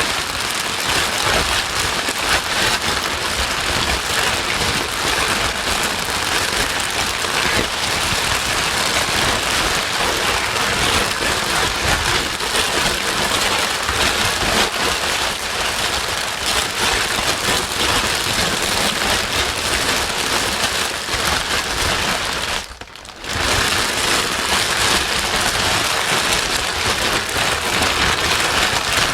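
Steady white noise for soothing a crying baby: a dense, even hiss. It drops out briefly about 23 seconds in.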